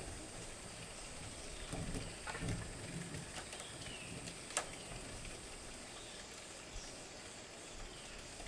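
Outdoor ambience with a steady high insect drone and a few short falling chirps. Some soft low knocks come about two seconds in, and a single sharp click about halfway.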